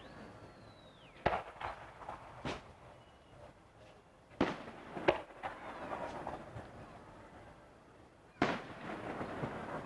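Fireworks bursting overhead: five sharp bangs spread over several seconds, each with an echoing tail. A high whistle glides down in the first second.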